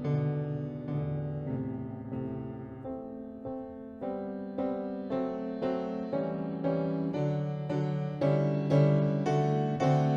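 Piano music: chords and a melody, with notes struck about every half second and each left to ring and fade, growing louder near the end.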